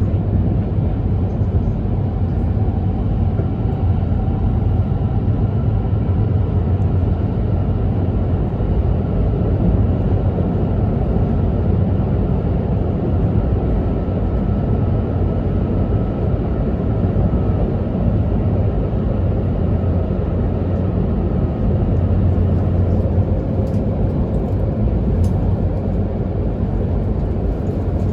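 Steady running noise inside an E2 series Shinkansen carriage: a continuous low rumble from wheels and running gear, with a faint steady whine above it.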